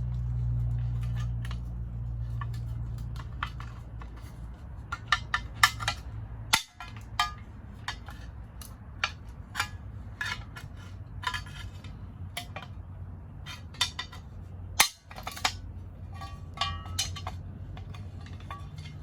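Metal tools and car parts clinking and clanking during hand work: scattered sharp clinks, some ringing briefly, over a steady low hum that fades during the first few seconds. The sound drops out briefly twice, like cuts between clips.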